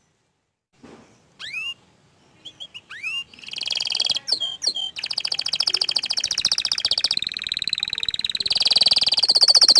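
Orange frost canary singing: after a second of silence, a few separate swooping whistled notes, then a long, fast trill of rapidly repeated notes that grows louder toward the end.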